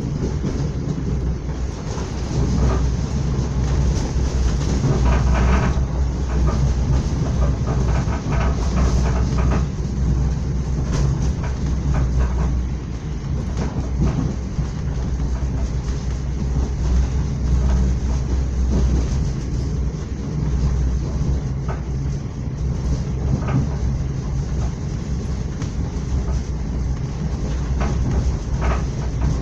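Moving train heard from inside a passenger carriage: a steady low rumble of wheels on rails, with scattered clicks and clacks as the wheels run over rail joints.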